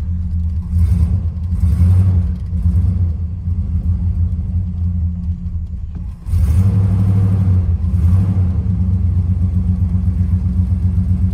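Mopar 383 big-block V8 running just after a cold start with the choke unhooked, blipped up several times early on. Near the middle it sags briefly, then catches with a sharp rev. It sounds really good for the moment, though this engine has worn bearings and knocks once it has run a while.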